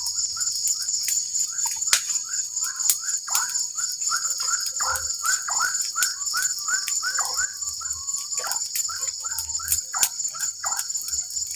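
Tropical forest ambience: a steady, shrill drone of insects such as crickets or cicadas, with a busy run of short, repeated chirping calls a few times a second and scattered sharp clicks.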